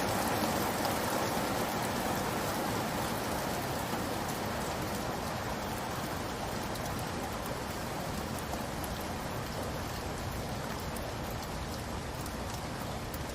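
Steady rainfall, a dense even hiss of drops pattering on surfaces, easing off slightly in loudness over the span.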